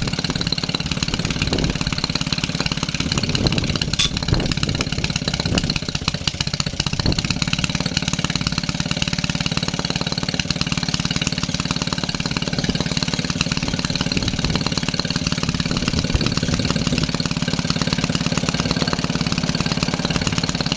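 1946 Maytag Model 72 twin-cylinder two-stroke engine running steadily just after a cold start, with a rapid, even exhaust beat. It runs a little slow, about 550 rpm below its proper speed.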